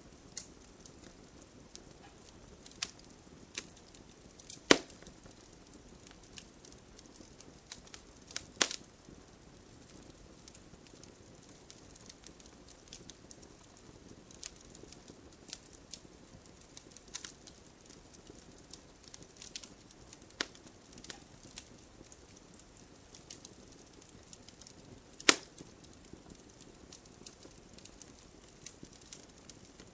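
Wood bonfire crackling, with scattered sharp pops, the loudest three about five seconds in, near nine seconds and about twenty-five seconds in, over a steady hiss of light rain.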